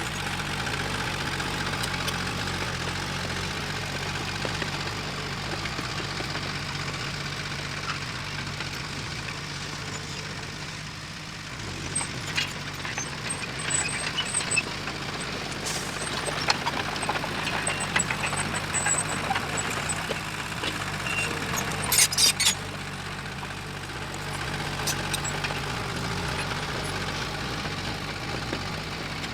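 Diesel engine of heavy earthmoving machinery running steadily, with scattered sharp metallic clanks and knocks from a little before halfway to about three quarters through, loudest in a short cluster about three quarters in.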